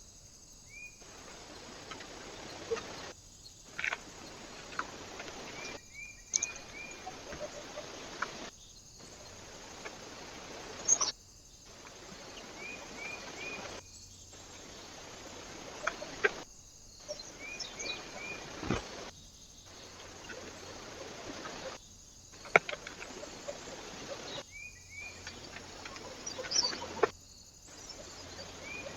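Small birds at a feeder giving short chirps in quick runs of three or four, with sharp taps and clicks, over a steady hiss. The sound breaks off briefly every two to three seconds.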